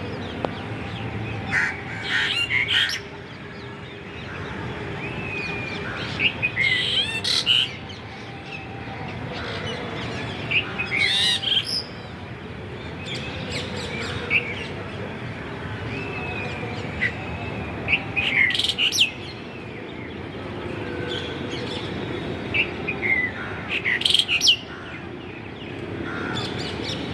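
A bulbul calling in short clusters of bright chirps and gliding whistled notes, repeated every four to six seconds over steady background noise.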